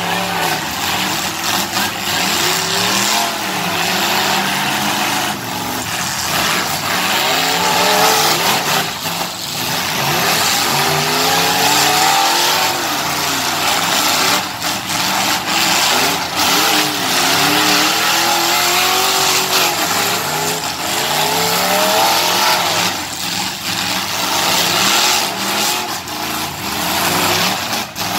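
Several car and truck engines revving up and down at once in a demolition derby, with a few sharp bangs of vehicles hitting each other.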